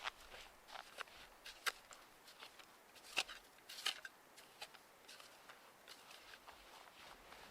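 Irregular crisp crunches and clicks of snow, the sharpest about a second and a half, three and four seconds in.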